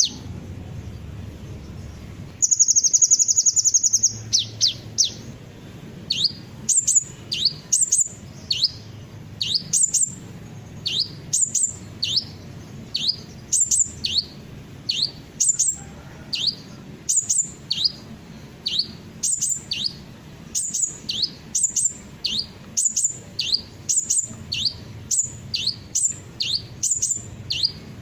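Sunbird song. A fast, buzzy high trill comes about two to four seconds in. After it comes a steady, repeated series of sharp, high chirps, each sweeping quickly down in pitch.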